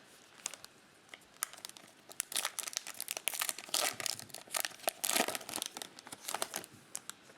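Plastic trading-card pack wrapper crinkling in the hands and being torn open, a quick run of sharp crackles.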